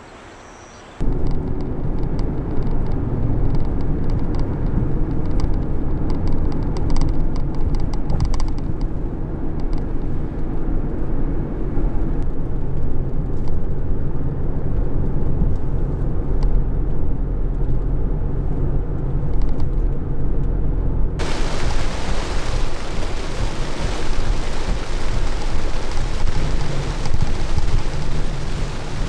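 Heavy rain: a loud, steady low rumble of rain drumming on the camper, joined suddenly about two-thirds of the way through by a bright, hissing rain sound.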